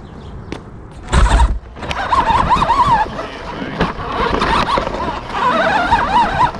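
Remote-controlled monster truck driving off, with a loud thump about a second in, then its electric motor whining up and down with the throttle over the rumble and rattle of the wheels on the ground.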